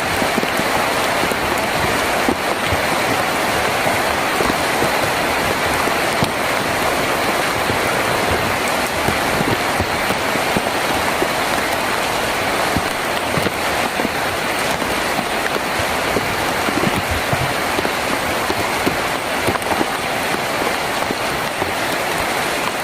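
Heavy rain drumming steadily on a tin roof, a dense even patter with many individual drops knocking on the metal.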